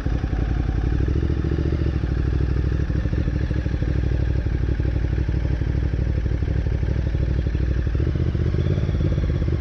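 Motorcycle engine running steadily, a fast even stream of firing pulses with no revving up or down.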